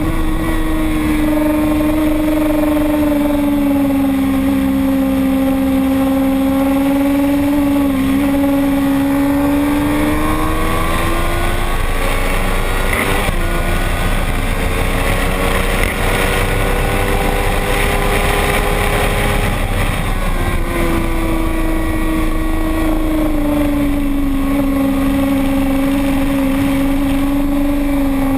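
Motorcycle engine running at high revs on a race track, with wind rushing past throughout. Its pitch sags slowly, climbs again around ten seconds in, turns rougher and less clear through the middle, then returns steady and sags again near the end.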